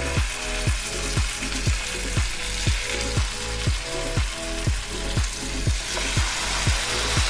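Tandoori-marinated chicken legs sizzling as they fry in hot butter and oil in a frying pan. Background music with a steady beat of about two strokes a second plays over the sizzle.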